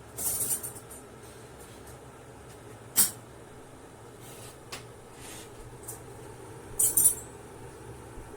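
Clinks and clicks from handling a glass electric kettle, over a faint steady hum. A short cluster of small knocks comes near the start, one sharp click about three seconds in, and another cluster of clinks near the end.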